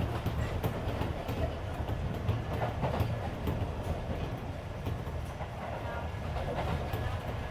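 Interior running sound of a Keisei 3400 series electric train car between stations: a steady rumble of wheels on rail with irregular sharp clicks over the track, and the car's air conditioning running beneath it.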